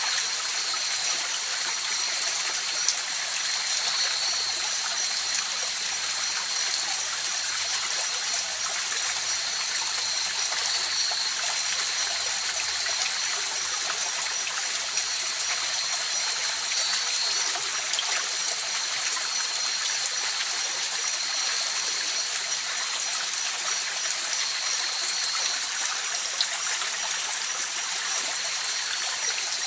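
River water flowing over stones in an even, unbroken rush, with a steady high-pitched trill running over it throughout.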